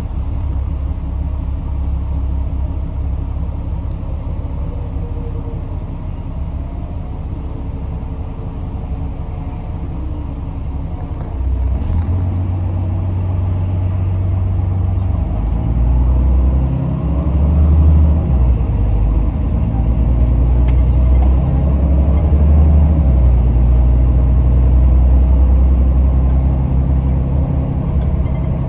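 Yutong ZK6128HG city bus's diesel engine and running noise heard from inside the cabin as a steady low rumble. About eleven seconds in it grows louder and heavier as the bus pulls harder, and its note shifts in steps after that. A few faint, thin high-pitched squeaks sound in the first ten seconds.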